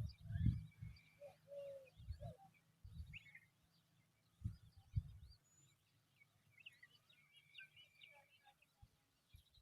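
Birds chirping, with many short high chirps and quick rising and falling notes scattered through, busiest near the start and again around the seventh second. Several low dull thumps or rumbles come in the first half and are louder than the chirps.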